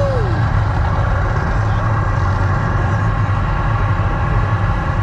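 Steady low mechanical rumble with a constant hum, like a large engine idling, and a short falling whistle at the very start.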